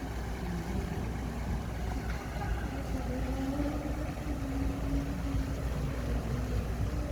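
Bulldozer's diesel engine running steadily under load: a deep rumble with a steady, slightly wavering hum above it.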